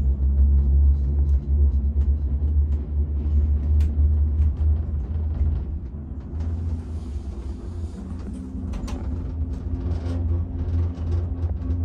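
Steady low rumble of a moving vehicle, with a faint hum and scattered light clicks, easing a little about halfway through.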